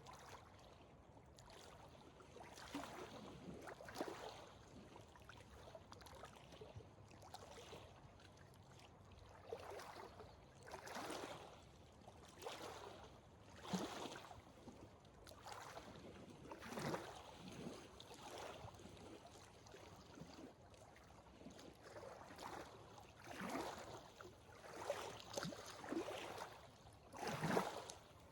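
A hiker's footsteps on a dirt and gravel trail, a short crunch about every second or so, over a faint steady background hiss.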